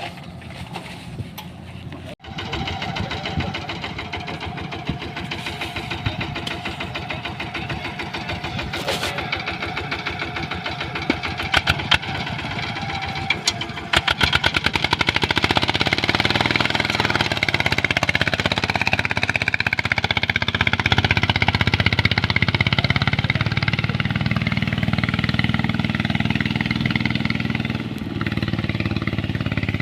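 A small engine running steadily, getting noticeably louder about halfway through and staying loud.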